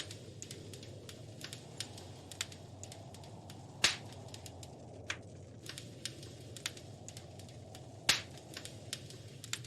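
Wood fire crackling in a fireplace: a steady low rumble of flames with many small scattered snaps, and two louder pops about four and eight seconds in.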